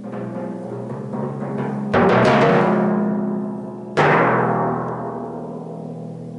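Four pedal timpani played solo: softer strokes, then a loud cluster of strokes about two seconds in and a single loud stroke about four seconds in. The drums are left ringing and fading away.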